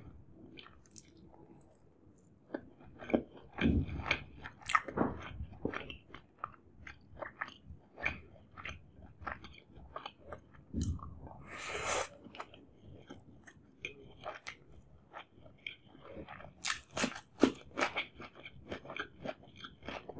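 Close-miked chewing of a mouthful of chicken dum biryani: irregular wet clicks and crunches of the mouth and jaw, one after another.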